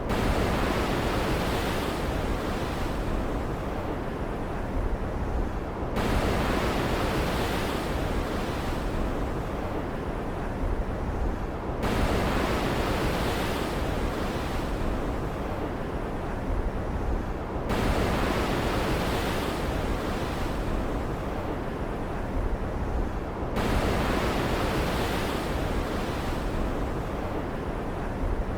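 Stormy ocean ambience: a steady rush of surf and wind-driven water. It swells abruptly about every six seconds and then eases off, like a short repeating loop.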